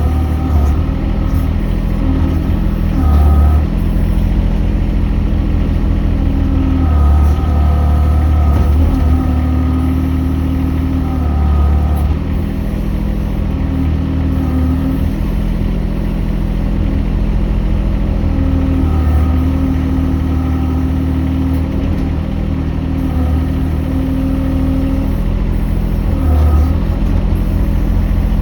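Mini excavator's engine running steadily, with a higher whine coming and going every few seconds as the machine works.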